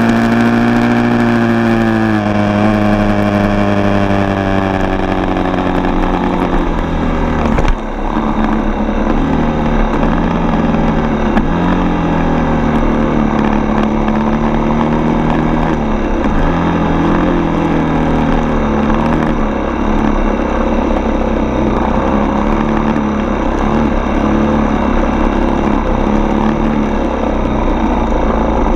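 Four-stroke dirt bike engine running under way. Its pitch falls as it eases off in the first few seconds, a knock sounds about eight seconds in, and then the pitch rises and falls with the throttle.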